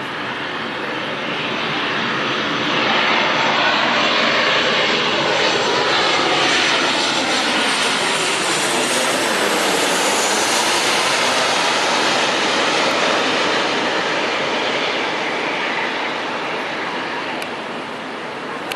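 Aeroplane engine roar, a dense steady rush that swells over the first few seconds, holds loud, then eases off near the end.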